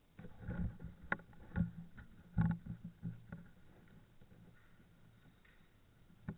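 A quick, irregular run of knocks and thumps over the first three seconds or so, then a single sharp click near the end.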